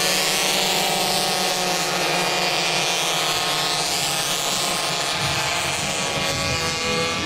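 Small racing motorcycle engines at high revs, a steady high-pitched buzz whose pitch glides as the bikes pass.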